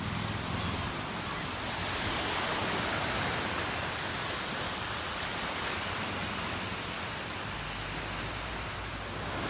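Ocean surf washing onto a beach: a steady rush that swells a couple of seconds in and then eases off.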